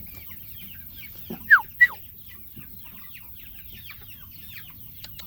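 A flock of chickens clucking and chirping, with many small quick calls throughout and two loud falling calls about a second and a half in.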